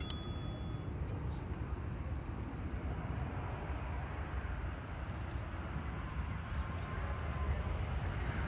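Low, steady rumble of a Boeing 737 MAX 8's CFM LEAP-1B jet engines on approach, growing slightly louder toward the end. A brief high beep sounds right at the start.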